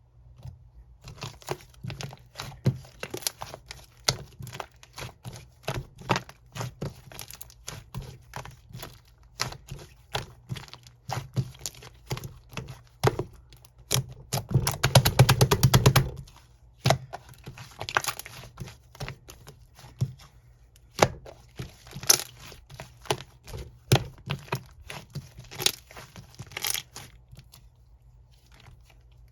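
Slime being squeezed, stretched and poked by hand, giving a steady run of small clicks, pops and crackles. About halfway through comes a louder, rapid stretch of crackling lasting about two seconds.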